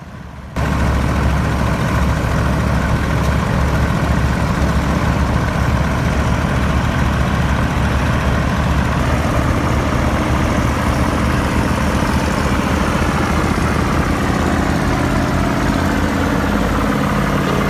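Heavy MAN trucks' diesel engines running steadily together while towing. The sound cuts in abruptly about half a second in.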